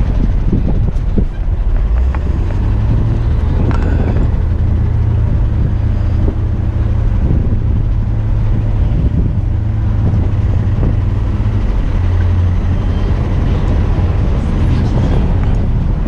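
Heavy diesel tipper truck engine running steadily at a low pitch, with a few light knocks and clicks over it.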